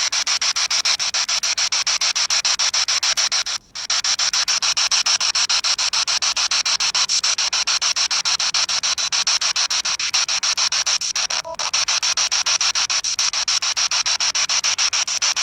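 Spirit box scanning through radio frequencies: a loud, steady hiss of static chopped into rapid, even ticks as it sweeps. It cuts out briefly a little under four seconds in.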